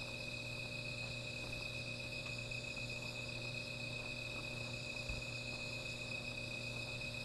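Night insects, crickets, chirring in a steady, continuous high-pitched trill.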